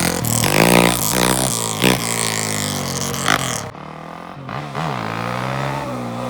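ATV engine revving up and down as the quad is ridden, easing off briefly a little past halfway before pulling again.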